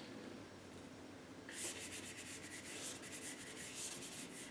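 Paintbrush scrubbing white acrylic paint onto the painting in quick repeated strokes, a faint scratchy rubbing that starts about a second and a half in.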